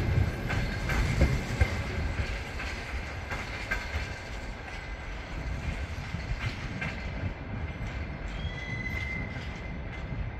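Passenger train coaches rolling away over the rail joints, the wheel clicks fading as the train recedes. A brief wheel squeal comes late on.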